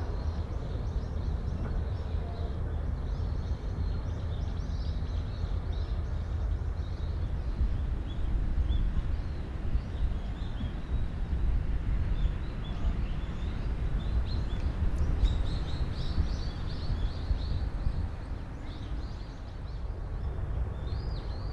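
Small birds chirping and twittering over a steady low rumble.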